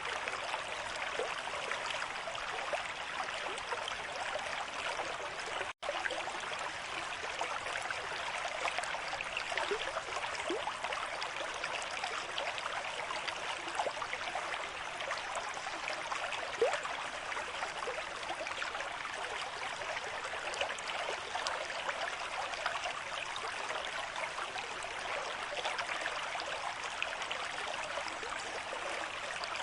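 River stream with moderate flow: a steady rush of running water with constant small gurgles and splashes. The sound cuts out for an instant about six seconds in.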